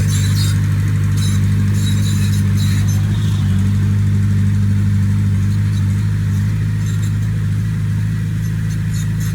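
Diesel engine of a heavy earthmoving machine running steadily, with irregular metallic clattering and rattling over it. The engine note eases slightly about six and a half seconds in.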